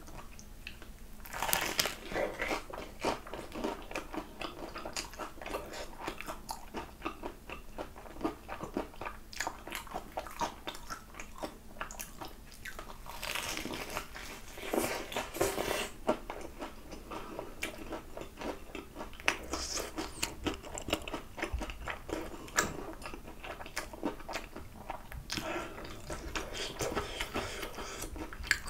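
Close-up biting and chewing of a crispy-battered fried chicken drumstick dipped in sauce: repeated crunches of the coating with wet chewing, in louder spells about a second in, midway, and near the end.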